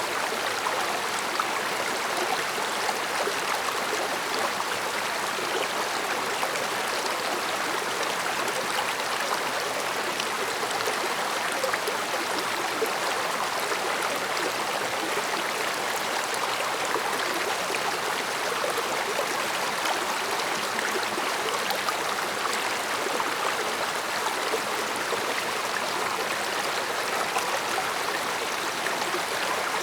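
A mountain stream flowing over rocks: a steady rush of water with fine gurgles and splashes, even throughout.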